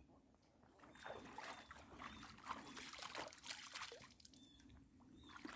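Faint water trickling and splashing: a run of small, irregular splashes and drips at the water's surface.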